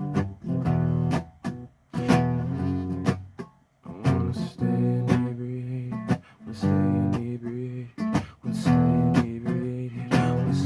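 Acoustic guitar strumming chords in a short instrumental break of a song. Each chord is struck sharply, about one a second, with brief pauses between phrases.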